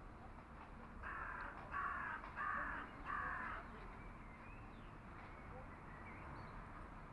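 A crow cawing four times in quick succession, each call harsh and about half a second long, over a steady low background noise.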